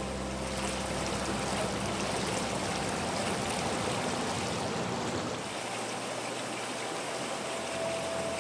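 Steady rush of flowing, splashing water at a water park.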